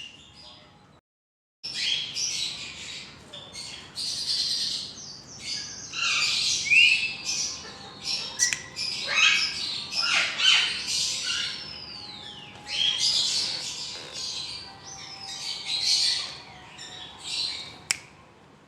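Pet parrots squawking in repeated harsh calls, with a drawn-out falling whistle just before the middle.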